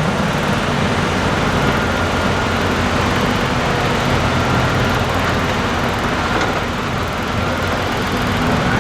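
Diesel engine of heavy construction machinery running steadily at a low, even speed.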